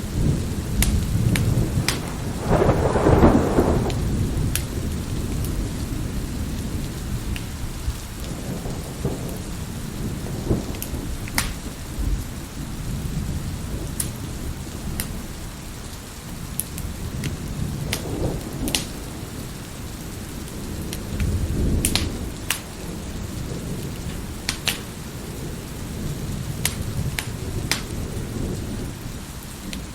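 Steady rain with rolling thunder, the loudest peal swelling about three seconds in and another rumble about two-thirds of the way through, while a wood fire in a fireplace gives sharp, scattered crackles and pops.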